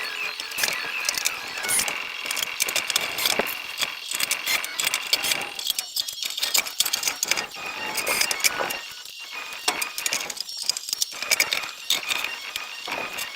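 Sped-up metalworking noise from aluminium sheet being worked: a fast, dense jumble of clicks, knocks and metallic clinks.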